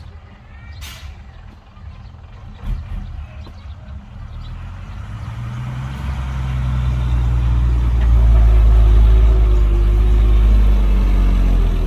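Heavy diesel engine of earthmoving equipment running, growing louder over several seconds to a loud, steady low note, then easing off just before the end.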